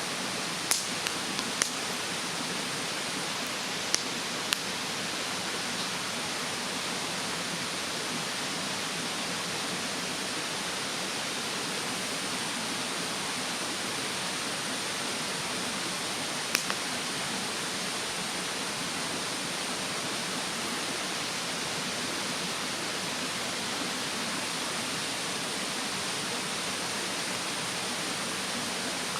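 Wood fire in a fire stand crackling, with a few sharp pops in the first two seconds, two more about four seconds in and one more about halfway, over the steady rushing of a mountain stream.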